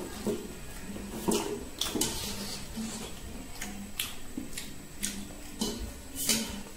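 Someone eating pork trotters and rice with their hands, with wet chewing and lip smacks heard as irregular sharp clicks about once or twice a second.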